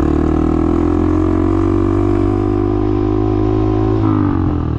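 Honda Monkey's small single-cylinder four-stroke engine running under way at a steady note, then dropping in pitch about four seconds in as the rider eases off the throttle.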